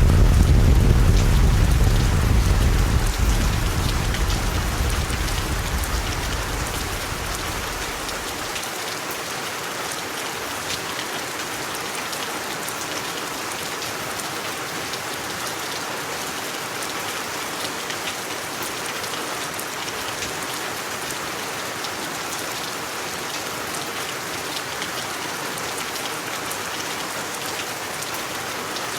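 Steady rain falling, a dense hiss of fine drop patter. A deep low rumble, loudest at the start, dies away over the first eight seconds or so, leaving only the rain.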